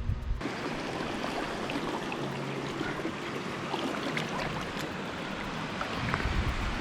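Water running steadily at a hot spring, a continuous rushing with small splashes and drips. A few low thumps near the end.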